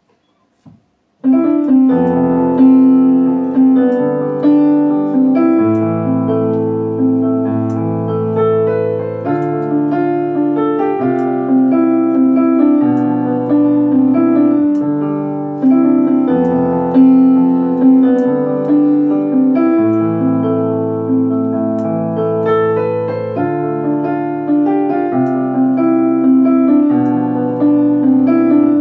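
Solo piano playing the introduction to a pop ballad, starting about a second in. Sustained low bass notes and chords change about every one to two seconds under a repeating higher figure.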